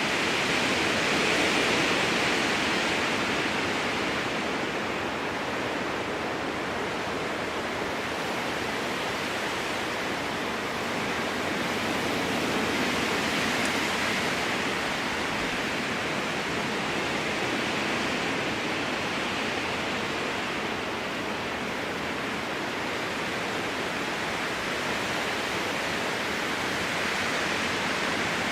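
Strong wind blowing through spruce trees, a steady rushing hiss that swells and eases in slow gusts every ten seconds or so.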